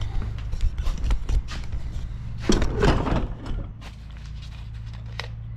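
Knocks, clicks and clatter of objects being handled and moved, with a louder rustling, scraping burst about two and a half seconds in, over a steady low hum.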